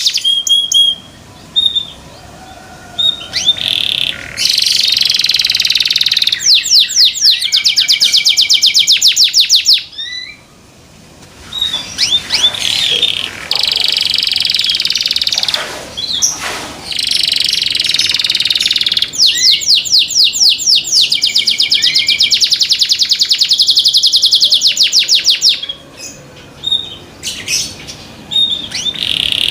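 Canary singing loudly in long, high-pitched song phrases: runs of fast repeated trill notes and sustained rolling notes, broken by a few short pauses.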